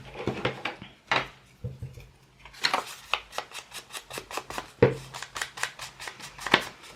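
Paper edges being inked with an ink pad, rubbed along the edge in a quick run of short strokes, about five a second. Two light knocks come first, in the opening second or so.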